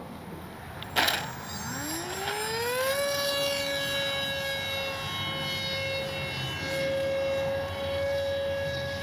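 Brushless electric motor and propeller of a HobbyZone Aeroscout RC plane throttling up. A whine rises in pitch over about two seconds, then holds steady at high power. A short click comes just before the rise.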